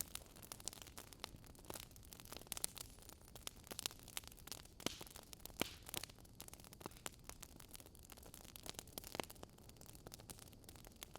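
Campfire burning, wood crackling and popping in irregular sharp snaps over a soft low hiss.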